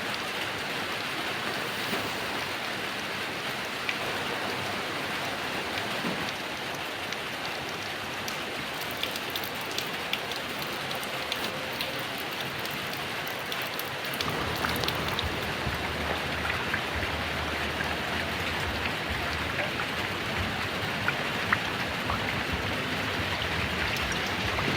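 Steady heavy rain, with single drops ticking sharply through the downpour. About halfway through, the sound grows fuller and deeper and a little louder.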